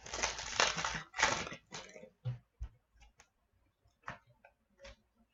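Hockey trading cards rustling and sliding as they are handled, most strongly over the first second and a half, followed by a few light clicks and taps.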